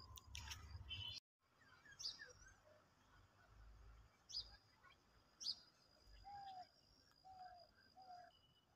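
Faint birdsong: scattered short chirps, with a few sharp high chirps that sweep down, and a run of short mid-pitched whistled notes in the second half.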